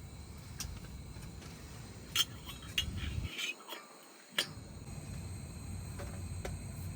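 A series of sharp clicks and light clinks, like small hard objects being handled, over a steady low rumble. The rumble drops out for about a second midway.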